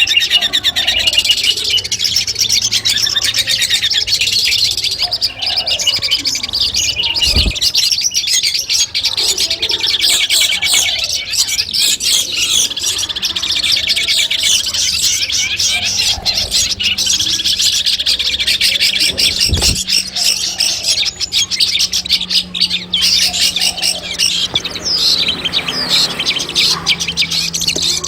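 Long-tailed shrike (cendet) singing a fast, unbroken chattering song of rapid high notes, with a faint low hum underneath in the second half and a couple of soft thumps.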